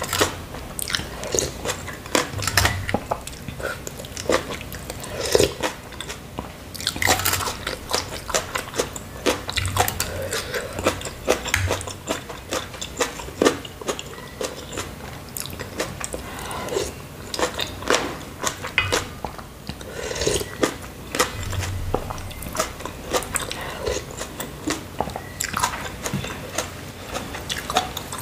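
Close-miked chewing and biting of spicy noodle soup: a dense, irregular run of short, sharp mouth clicks.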